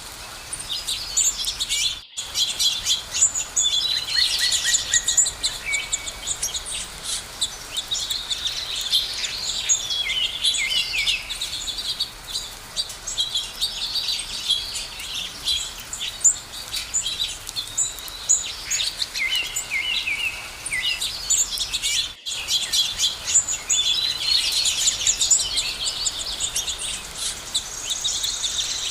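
Chorus of many songbirds chirping and singing at once, dense overlapping high calls and trills. The sound drops out entirely for an instant twice, a couple of seconds in and about three-quarters through.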